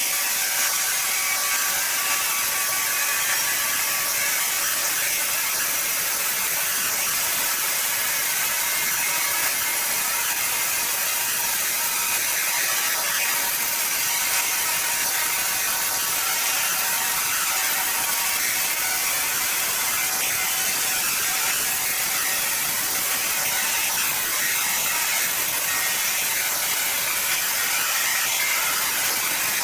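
Sawmill saw cutting through timber: a steady, high-pitched mechanical rasp that doesn't let up.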